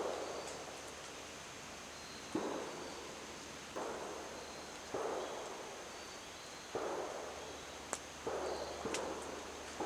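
Distant gunshots, about six in an irregular string one to two seconds apart, each followed by a rolling echo.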